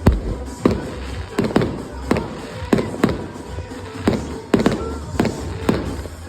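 Fireworks going off in a rapid series of sharp bangs, about two a second.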